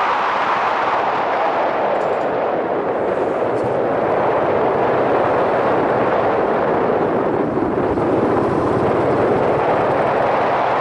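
Yamaha SRX400's single-cylinder four-stroke engine running under way, mixed with steady wind rush over the helmet-mounted microphone.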